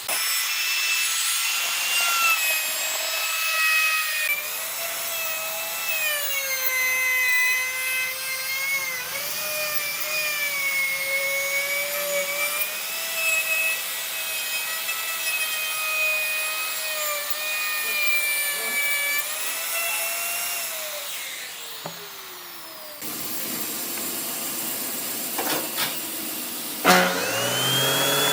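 Handheld electric power tool cutting or shaping wood: a high motor whine that dips and recovers in pitch as the tool bites into the wood, with a sharp knock near the end.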